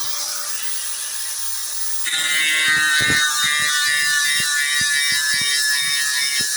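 Angle grinder with a worn sanding disc running against a boat hull, scuffing off the top layer of paint. It gets louder about two seconds in, with a high whine and irregular scraping knocks as the disc works the surface.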